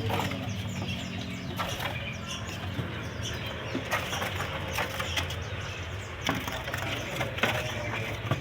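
Caged songbirds fluttering and hopping in their cages, giving irregular short clicks and wing flaps, with scattered chirps.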